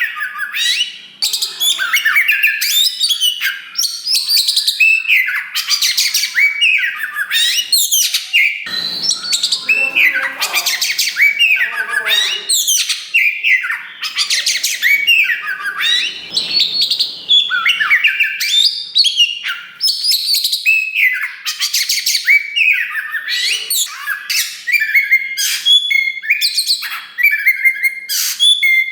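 Oriental magpie-robin of the black 'kacer wulung' form singing loudly and without pause: a fast, varied string of clear whistles, rising and falling glides and trills, broken here and there by harsher rasping notes.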